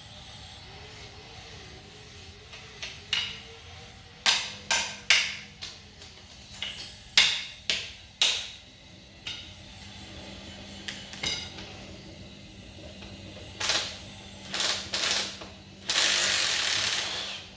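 Hand tools knocking and clinking on metal engine parts: a series of separate sharp knocks, several close together, followed near the end by a loud hiss lasting about a second and a half that stops abruptly.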